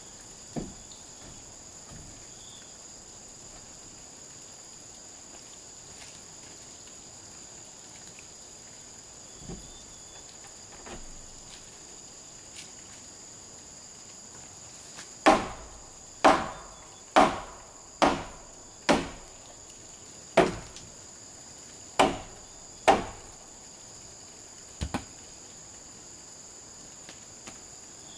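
A string of about eight hammer blows on wood, a little under a second apart, each with a short ring, plus a few lighter knocks before and a quick double knock after. Insects keep up a steady high buzz in two tones.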